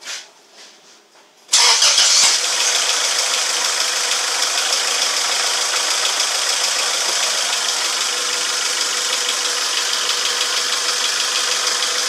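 2001 Acura Integra's 1.8-litre four-cylinder engine starting from cold about a second and a half in. It is loudest as it catches, then idles steadily.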